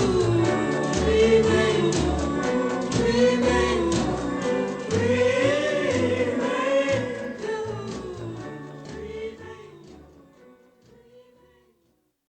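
Pop song's closing bars: a vocal group sings in harmony over a band with a steady bass line, fading out to silence shortly before the end.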